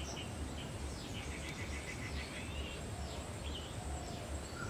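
Birds chirping and calling, with short sweeping notes and a quick trill of repeated notes about a second in, over a steady low background rumble.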